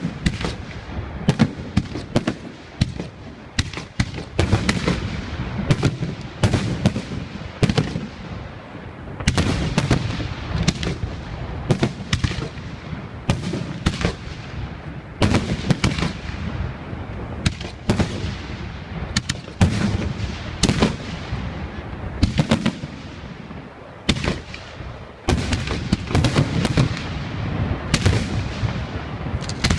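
Fireworks display: a continuous barrage of shell bursts, many bangs a second with echoing tails and a low rumble between them.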